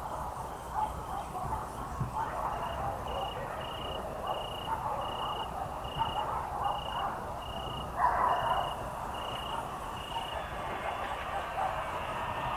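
Evening countryside ambience: a cricket chirps in an even pulse about twice a second, over a busy background of distant calls, with a louder call about eight seconds in.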